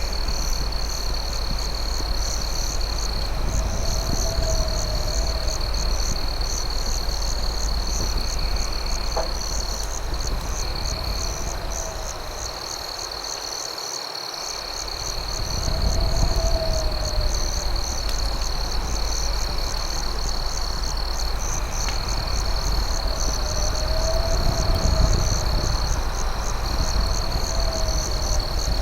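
Night chorus of crickets: a steady high trill with a faster pulsing chirp above it. Low rising-and-falling calls come every couple of seconds, over a steady low rumble. A couple of faint snaps from the campfire come about a third of the way in and again later.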